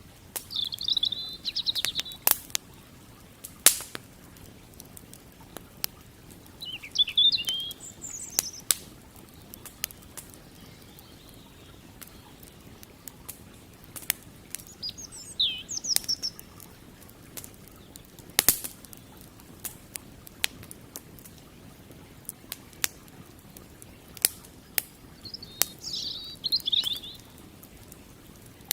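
Wood campfire crackling, with sharp pops scattered irregularly throughout. A bird sings four short, high chirping phrases spread across the stretch.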